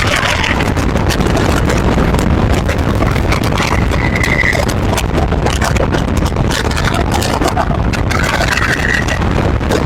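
Steady road and wind noise of a car at highway speed, around 120 mph, with a faint brief high tone twice.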